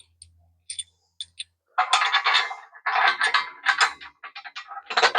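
A few light clicks, then about two seconds in a loud run of metallic clattering and scraping, like small metal parts and tools being handled and rummaged through on a work surface.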